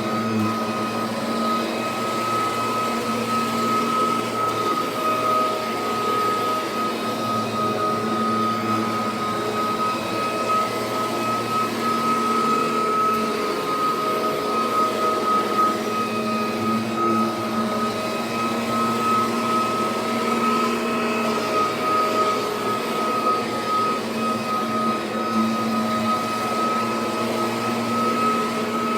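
Kirby Sentria upright vacuum fitted with a six-bladed fan, running steadily while vacuuming, with a constant high fan whine over the motor's hum.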